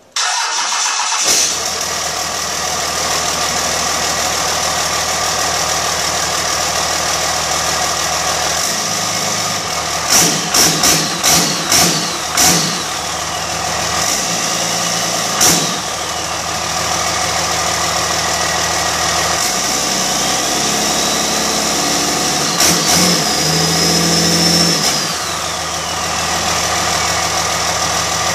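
Cummins 12-valve 5.9-litre inline-six diesel fires up suddenly and runs at a steady idle. About ten seconds in it is blipped about six times in quick succession, then once more. Later it is held at higher revs for a few seconds, its pitch rising and then falling back to idle.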